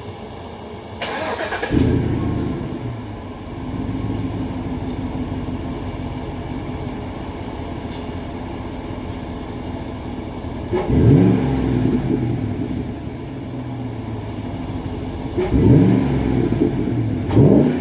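6.2-litre V8 of a tuned 2016 GMC Yukon Denali with a Borla exhaust and K&N intake: it starts with a flare-up about a second and a half in, settles to a steady idle, then is revved up three times in the second half, the last near the end.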